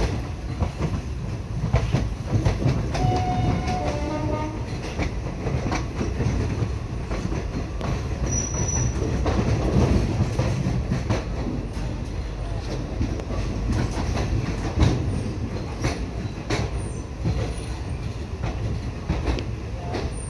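Indian Railways passenger train running, heard from the open doorway of a coach: a steady low rumble of wheels on track with irregular clicks as the wheels pass over rail joints.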